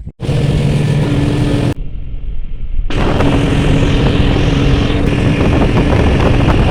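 An engine running at speed under heavy wind noise on the microphone. A quieter, duller stretch about two seconds in breaks it briefly before the loud engine and wind noise return.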